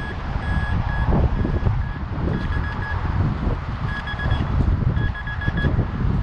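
Minelab Vanquish 440 metal detector sounding short, high target beeps in quick repeated groups as the coil is swept back and forth over a buried target. Wind rumbles on the microphone underneath.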